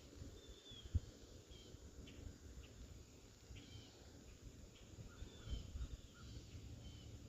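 Faint outdoor sound: a handful of short, high, falling bird chirps spaced a second or so apart, over a low rumble, with a single knock about a second in.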